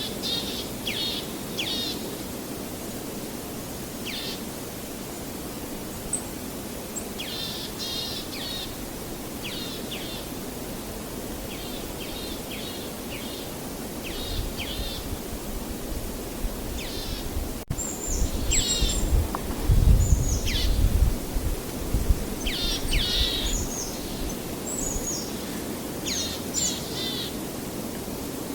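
Songbirds chirping repeatedly in short calls over a steady outdoor background hiss. A low rumble swells in the middle and dies away before the end.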